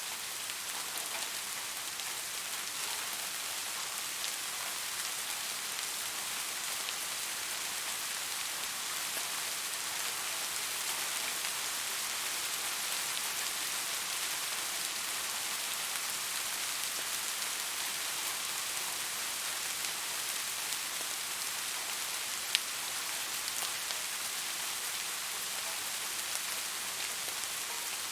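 Steady rain falling, a dense even patter of drops with scattered sharper drop ticks. One single louder click stands out about three-quarters of the way through.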